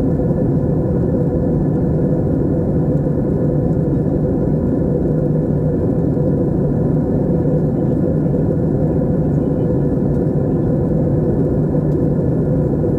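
Steady drone of an airliner in flight heard from inside the cabin: deep, even engine and airflow noise with a low hum and no change in level.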